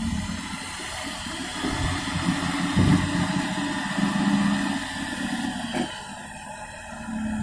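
A truck engine running at low revs, a steady rumble with a low hum that comes and goes.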